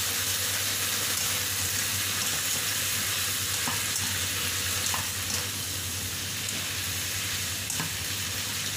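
Carrots and French beans sizzling as they are stir-fried in a hot wok with light soy sauce, with a few light clicks of the stirring utensil against the pan.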